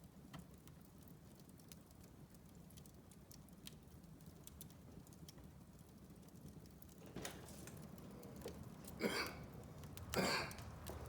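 Wood fire crackling in a fireplace: sparse small sharp pops, then near the end three louder bursts of crackle about a second apart.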